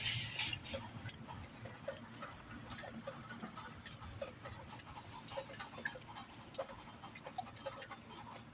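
Faint wind noise from a coastal storm, with scattered small ticks and taps at no regular rhythm.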